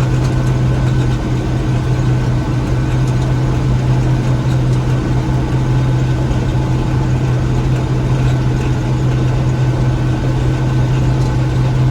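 Gleaner M3 combine running steadily while harvesting wheat: an even engine-and-machinery drone with a strong low hum and fainter steady higher tones.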